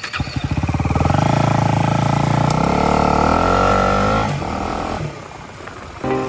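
Motorcycle engine accelerating, its pitch climbing, then easing off sharply about four seconds in. Background music comes in near the end.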